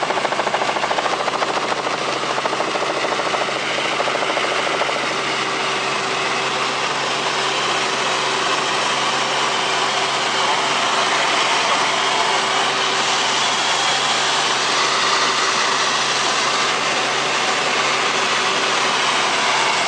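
Helicopter engine and rotor noise in flight, heard from on board: a loud, steady running sound with a constant hum.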